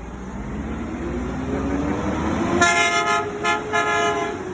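Garbage truck's engine revving up as it pulls away, then its horn tooting three times, the first toot the longest.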